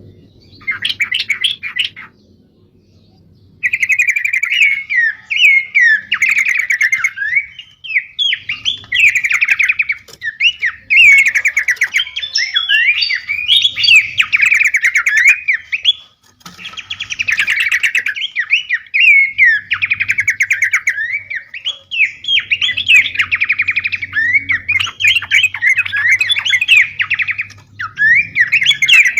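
Recorded songbird song of the kind played as a masteran to tutor cage birds: a fast, varied stream of chirps, whistles and trills. A short burst near the start, then after a pause the song runs on almost without a break, stopping briefly about halfway.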